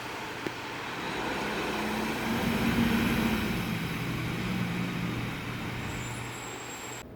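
Road traffic noise with a motor vehicle's engine hum that grows louder about two seconds in and fades after the middle. A single sharp click comes about half a second in.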